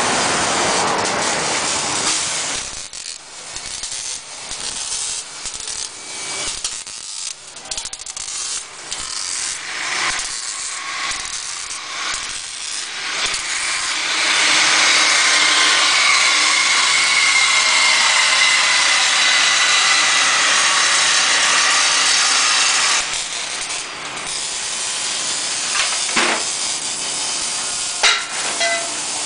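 Power tool working on exhaust piping: stop-start at first, then running steadily for about nine seconds past the middle with a hiss and a faint high whine, then a few sharp clicks near the end.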